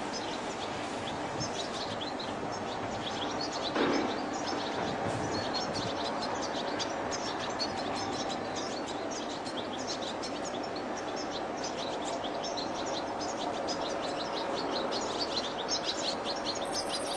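European goldfinch singing a fast, unbroken twittering song of rapid chirps over a steady background hiss. A brief thump sounds about four seconds in.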